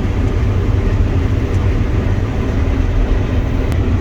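Combine harvester running steadily while harvesting wheat, heard from inside the cab as a constant low drone.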